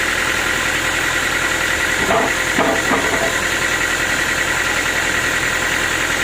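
Sawmill machinery running steadily, with a few brief knocks about two to three seconds in.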